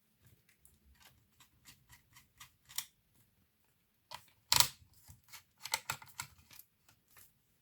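Small clicks and taps of laptop parts and tools being handled, with one louder knock about four and a half seconds in.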